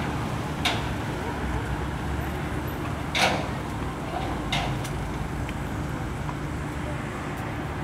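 Steady rumble of street traffic, with three sharp knocks at about one second, three seconds and four and a half seconds in; the one near three seconds is the loudest.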